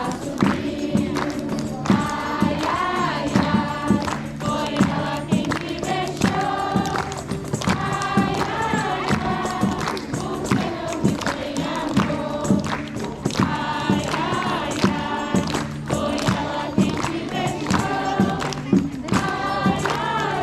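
A group of voices singing a song together, with instrumental accompaniment and a steady drum beat.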